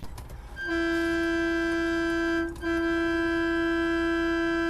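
Vehicle horn sounding one long steady blast, cut by a short break about two and a half seconds in, then held on.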